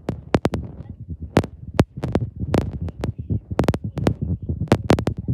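Irregular sharp clicks and knocks, several a second, over a low rumble.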